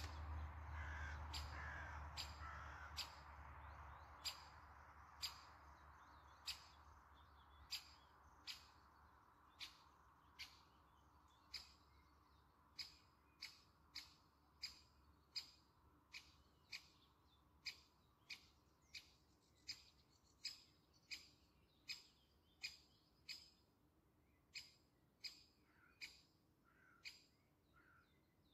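Faint, steady series of short, sharp bird calls, about one and a half a second, with a few softer chirps.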